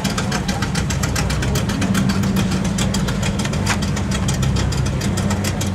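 Car engine running steadily: a low drone with a fast, even pulsing over it.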